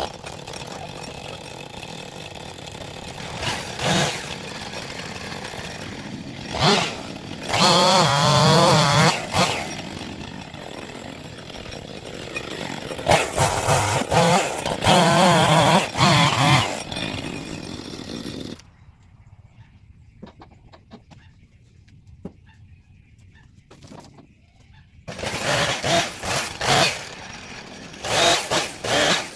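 Two-stroke chainsaw idling and revving up in several long bursts, as when cutting logs. It cuts off about two-thirds of the way through, then runs and revs again near the end.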